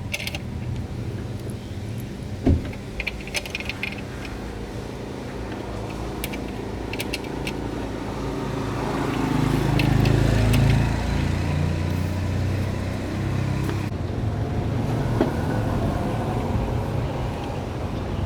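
Low engine rumble of a motor vehicle that swells to its loudest about ten seconds in and then eases off, like a vehicle going past. A sharp knock comes a couple of seconds in, with scattered light metallic clicks.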